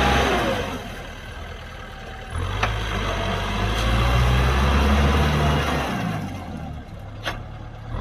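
Kubota M6040SU tractor's four-cylinder diesel engine running. Its note drops back soon after the start, picks up again about two seconds in, and eases off once more later on. Two short sharp clicks are heard, the louder one near the end.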